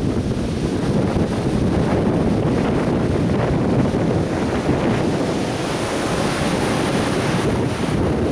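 Atlantic Ocean surf breaking and washing up a beach in a steady rush, with wind rumbling on the microphone. A brighter hiss of washing water swells a few seconds in.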